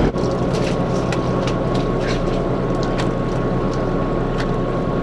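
Fishing boat's engine running steadily, with a thin steady whine and scattered light clicks and knocks on deck.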